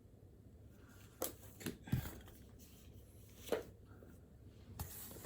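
Several separate short knocks and rustles from things being handled at a desk, spaced a second or so apart over a quiet room.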